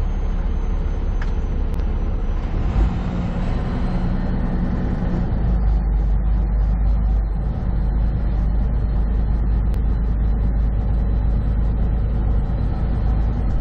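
Semi truck's engine and road noise heard from inside the cab while driving: a steady low drone.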